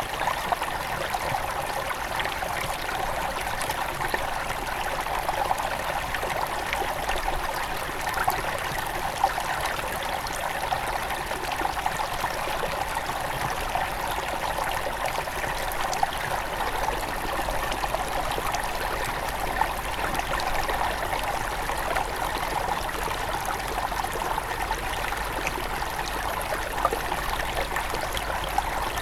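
Small mountain river flowing steadily over stones, a continuous rushing and splashing with many small trickles and drips.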